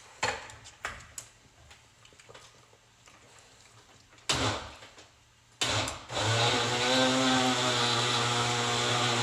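A few clicks and two knocks, then a countertop blender's motor starts about six seconds in and runs steadily at full speed, chopping cucumber and pineapple in coconut water.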